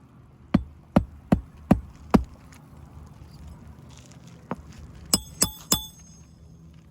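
Hammer blows driving roofing nails into an asphalt shingle: a run of five quick strikes about 0.4 s apart, then after a pause three sharper strikes that ring like metal on metal.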